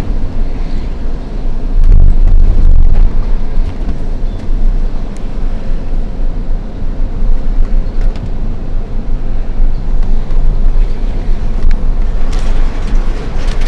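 Hino FL 260 JT truck's diesel engine running while laden with coal, a steady low rumble. A louder hiss builds near the end.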